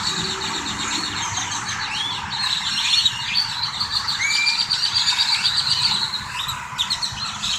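Birds singing: rapid trills and short rising whistled chirps, repeated throughout, over a steady background hiss.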